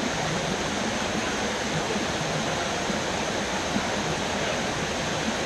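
Waterfall pouring steadily.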